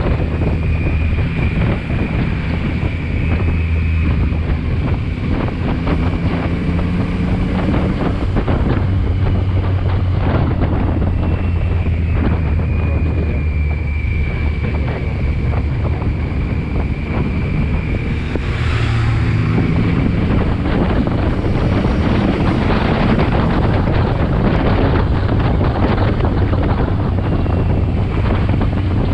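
Motorcycle riding at speed: heavy wind noise on the microphone over the steady note of the engine. The engine note changes about two-thirds of the way through.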